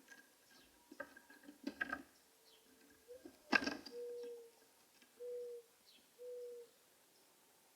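Taps and clicks of a bird working at a seed feeder, with one loud sharp click about a third of the way in. Then a low cooing call: a long, slightly rising coo followed by three short, even hoots about a second apart.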